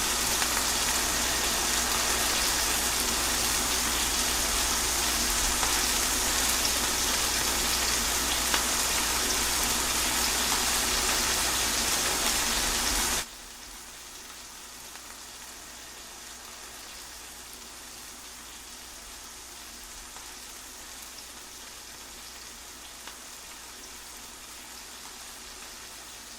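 Steady rain falling, a dense even hiss, that drops suddenly about halfway through to a much fainter, steady hiss.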